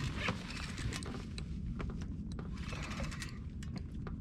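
Fishing reel being wound in against a hooked fish, a scatter of irregular clicks and ticks over a low steady rumble.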